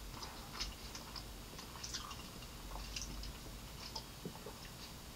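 Soft chewing with the mouth closed, heard as faint, scattered wet mouth clicks.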